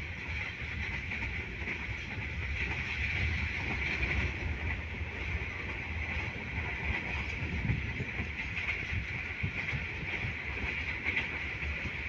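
Passenger train running along the track, heard from inside a coach: a steady rumble of wheels on rail with a hiss over it and a few faint clicks over rail joints.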